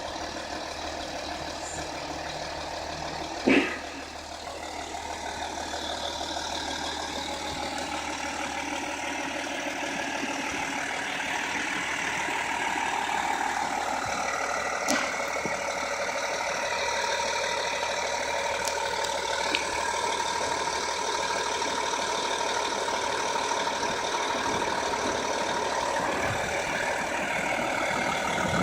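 Audi A4's 3.0 TDI V6 diesel engine running steadily, slowly growing a little louder, with one sharp knock about three and a half seconds in.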